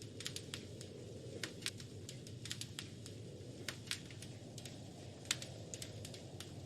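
Wood fire crackling in a fireplace: sharp, irregular pops and snaps several times a second over a soft, steady low rumble of the burning fire.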